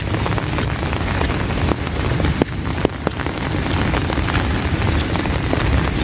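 Heavy rain falling steadily, a dense hiss with a low rumble under it and many sharp ticks of single drops striking close by.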